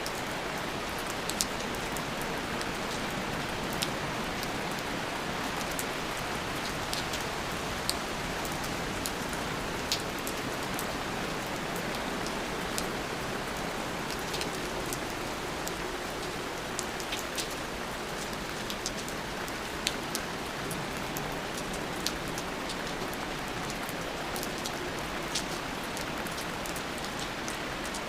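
Steady rain falling on a surface, a dense even patter with scattered sharper drips of single drops.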